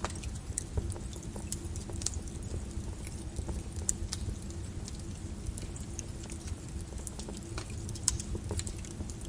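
Lava flow crackling and clinking over a steady low rumble: irregular sharp cracks and ticks, one louder crack about eight seconds in.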